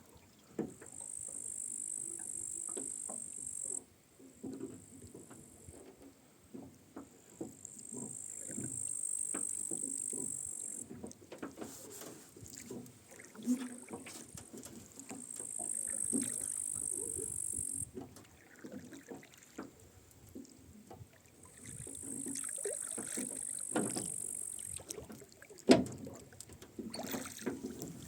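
Rowing a small boat with oars: the oars creak in their oarlocks and splash in the water in a slow rowing rhythm, about one stroke every seven seconds, with scattered light knocks. A sharp, loud knock comes near the end.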